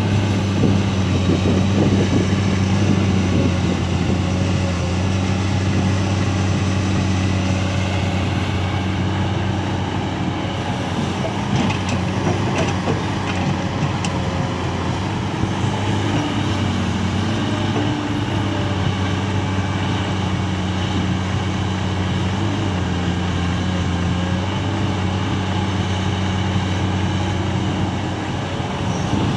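Heavy diesel engine of a Komatsu PC200 excavator running steadily as the machine digs and loads soil into a dump truck, its hum shifting slightly with the load. A few faint knocks come about eleven to thirteen seconds in.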